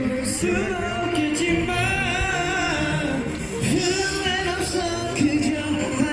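Live singing over amplified pop backing music through a PA system, with sustained, wavering sung notes.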